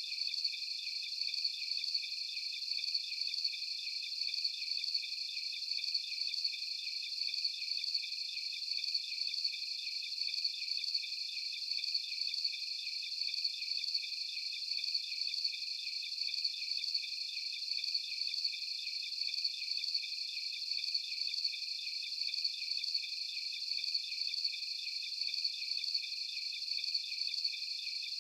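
Night insect chorus, crickets chirping in a steady, fast, pulsing trill, high-pitched and unchanging, with nothing lower underneath.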